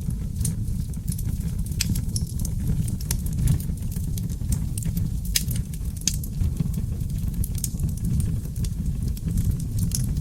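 Seasoned oak logs burning in a fireplace: a steady low rumble of flames with frequent irregular sharp crackles and pops.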